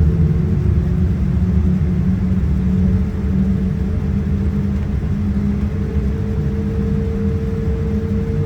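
Cabin noise aboard a Boeing 787-9: a steady low rumble of its Rolls-Royce Trent 1000 engines and the airframe, with a hum running through it. A higher hum tone rises slightly and grows stronger about halfway through.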